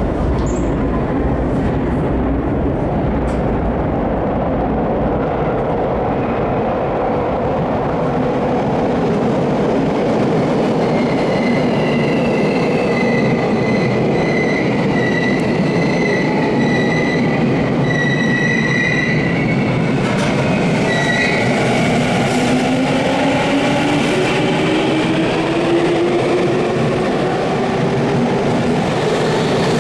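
Electric commuter train in an underground station: a steady rumble with a high wheel squeal through the middle, then from about two-thirds of the way in a motor whine that climbs steadily in pitch as a train accelerates away.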